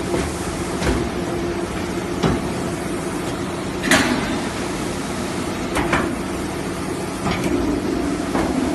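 Automatic HVAC air duct production line running: a steady machine hum, with irregular sharp metallic clanks every second or two from the sheet-metal machines, the loudest about four seconds in.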